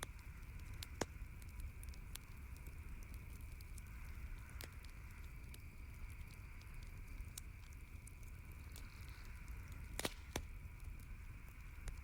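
Campfire crackling, with scattered sharp pops and two louder pops close together near the end, over a steady background hiss.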